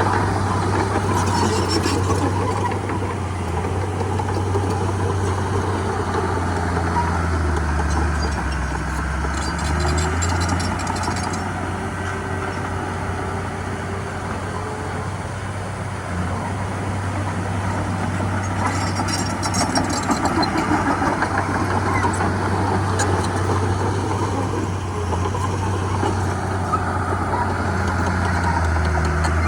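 Heavy diesel engine of earthmoving machinery running steadily, its pitch dipping lower briefly about a third of the way in and again near the end. Three short bursts of high-pitched metallic clatter come over it.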